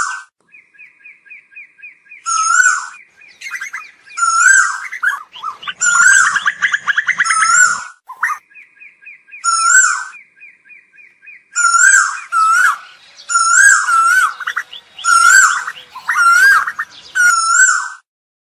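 Asian koel calling: loud, repeated short wavy notes in bursts with gaps between, and twice a fast run of short, higher notes.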